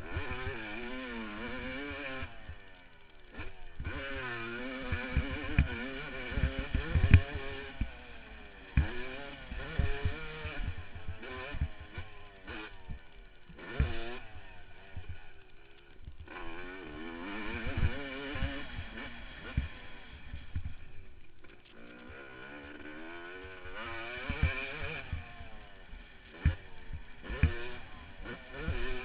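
Yamaha YZ250 two-stroke motocross bike engine revving up and down again and again as it is ridden hard around a track, with many short thumps and knocks, heard from a helmet-mounted camera.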